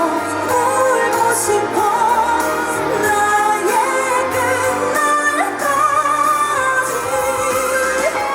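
A woman singing a Korean pop ballad live, her voice wavering and gliding in long held notes over instrumental accompaniment with a steady bass.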